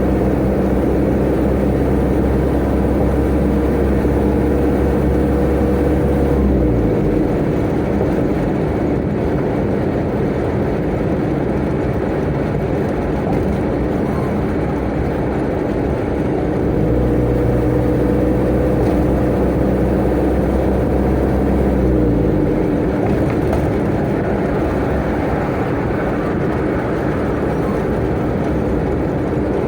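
Tata Ace mini truck's turbo engine running steadily under load over road and tyre noise. Twice, about a third of the way in and again about three-quarters of the way in, the engine note drops in pitch and fades, leaving mostly road noise, as the throttle comes off. The engine pulls again in between and near the end.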